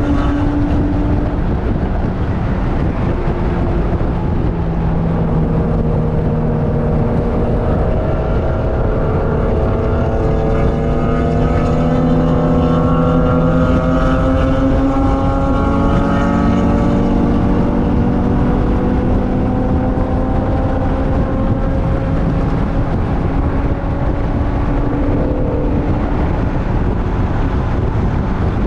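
A vehicle's engine running hard at track speed, heard onboard over wind and road noise. The engine note climbs slowly between about 8 and 17 seconds in, then drops and holds steadier.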